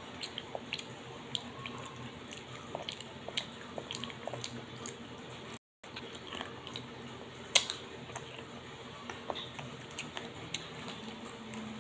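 Close-up chewing and crunching of garlic peanuts, with small scattered crackles and one sharper crunch about seven and a half seconds in.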